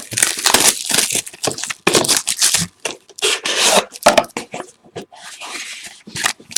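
A sealed box of baseball cards being torn open: a run of irregular ripping, rubbing and scraping of wrapper and cardboard.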